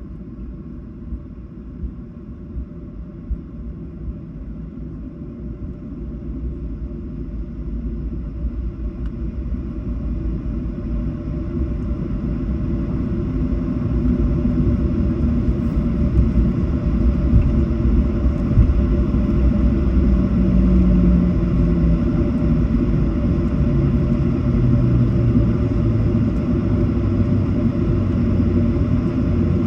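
Boeing 737 cabin noise during landing: a steady low rumble that grows steadily louder, with a low tone stepping down in pitch in the last third.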